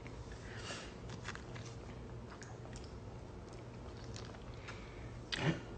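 Close-up biting and chewing of a crunchy, crisp-cooked piece of food: scattered faint crunches and mouth clicks, with a louder noise near the end.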